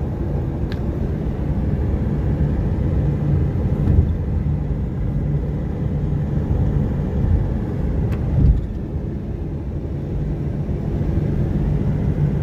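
Steady low rumble of a moving vehicle heard from inside the cabin, with a few faint clicks and a brief bump about eight seconds in.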